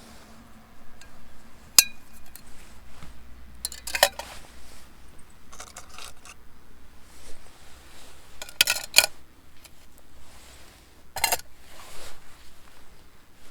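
Metal camping cookware and gear clinking and clattering as it is handled: a sharp ringing clink about two seconds in, then several short rattles spread through the rest.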